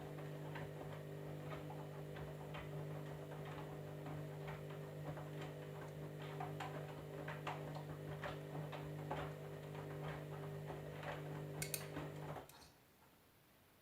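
Candy washing machine running: a steady hum with irregular clicks and ticks over it. The hum and clicks cut off suddenly about twelve seconds in.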